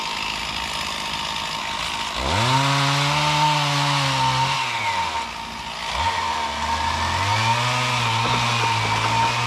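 Stihl MS460 Magnum two-stroke chainsaw cutting a limb: it revs up about two seconds in, eases off around the middle, then revs up again into a second cut.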